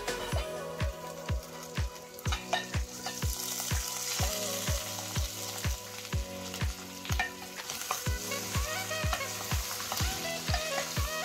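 Beef chunks and onions frying in a metal pan, a sizzle with a wooden spoon stirring through them, under background music with a steady beat of about two low thumps a second.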